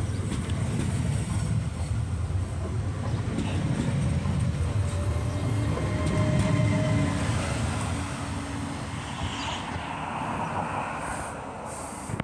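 Train passing: a steady low rumble that fades after about eight seconds, with faint thin squealing tones in the middle.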